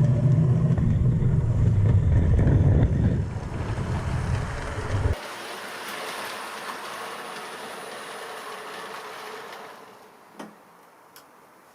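Bachmann OO scale model of an A4 Pacific locomotive running on the layout track, a steady low rumble from its motor and wheels. It cuts off suddenly about five seconds in, leaving a fainter hiss that dies away.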